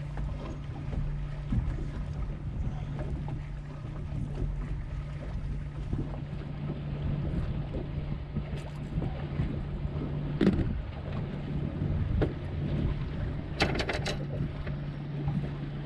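Strong wind buffeting the microphone and choppy water against a small fishing boat, under a steady low hum from an electric trolling motor. A few sharp knocks and clicks come about ten and fourteen seconds in.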